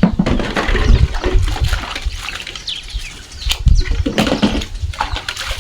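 Water pouring and splashing, with poultry moving and chirping around it, under a heavy low rumble.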